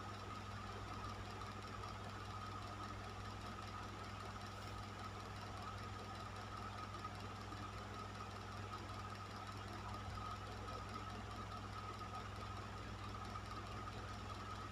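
Electric fan running steadily: an even rush of air over a low motor hum, with a steady whine in the middle register.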